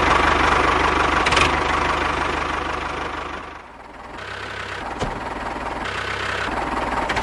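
Small electric motor of a DIY model tractor buzzing steadily. It drops away briefly about four seconds in, then runs on more quietly, with a light click or two.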